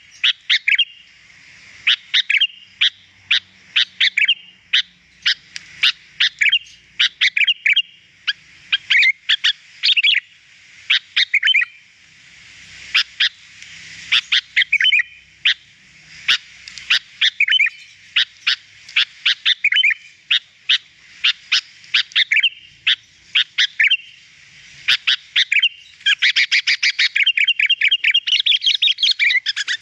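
Sooty-headed bulbul (kutilang) singing actively: loud bursts of quick, chirpy notes about once a second, running into a fast unbroken string of notes for the last few seconds.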